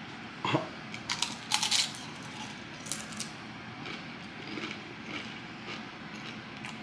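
Crunchy chip being bitten and chewed: a first crunch about half a second in, several sharp crunches between one and two seconds in, then softer, scattered chewing.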